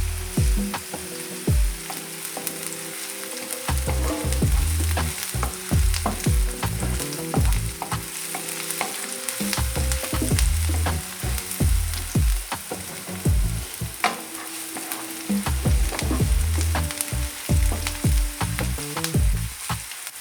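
Food frying and sizzling in hot oil in a pan, with frequent sharp clicks and knocks of a utensil against the pan.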